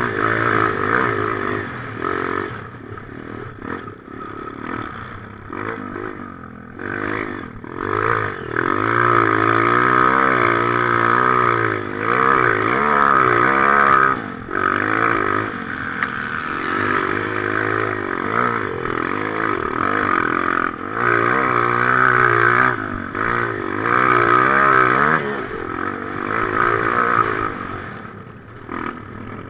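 Motocross bike engine running hard, its revs climbing and dropping again and again as the throttle is worked, heard up close from the rider's helmet. The engine note fades somewhat near the end.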